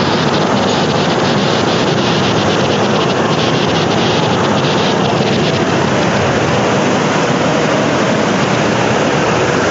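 Heavy rainstorm: a loud, steady rush of pouring rain and wind, with wind buffeting the microphone.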